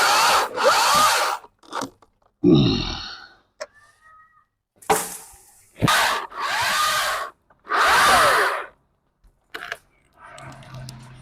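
Stihl MSA 220 TC battery top-handle chainsaw running in about five short bursts, its motor whine rising and falling as the chain cuts into branches, with pauses between bursts.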